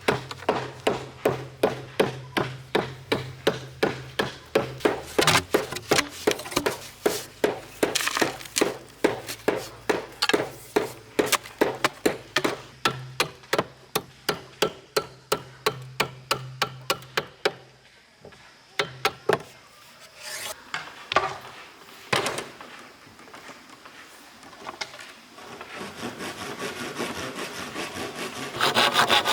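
Rapid, even blows on bamboo, about two or three a second, from bamboo being hammered or chopped. They stop a little past halfway, a few scattered knocks follow, and near the end a steady back-and-forth rasping on bamboo starts.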